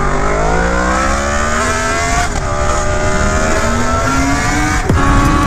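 Motorcycle engine accelerating hard, its note climbing in pitch, broken twice by brief sharp interruptions about two seconds in and near the end.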